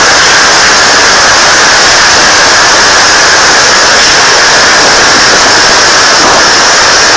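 Typhoon Haiyan's winds blasting the microphone, heard as a loud, steady roar of wind noise with no let-up.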